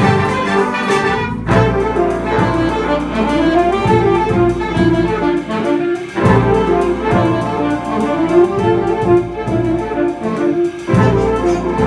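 Jazz ensemble playing, with saxophones and brass prominent. The music drops out briefly three times: about a second and a half in, around six seconds, and near eleven seconds.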